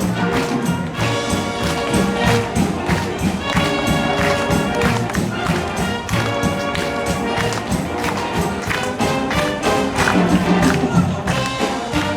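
Wind band playing: brass and woodwinds holding full chords over a steady drum beat.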